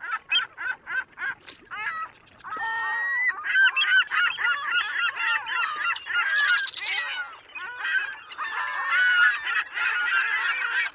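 A flock of birds calling over one another. At first there are separate short calls a few times a second, then after about two seconds they build into a dense, steady chorus of overlapping calls.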